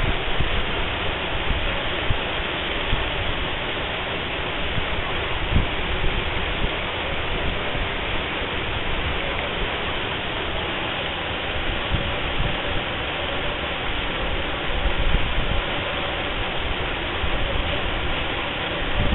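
Waterfall pouring in a steady, dense rush, with occasional low thumps.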